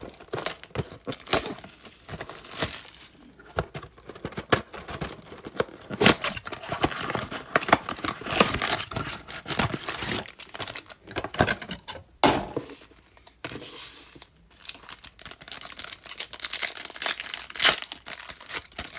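Plastic wrapping and foil card-pack wrappers of a 2020 Topps Fire blaster box being torn open and crinkled by hand, a dense run of irregular crackles and rustles.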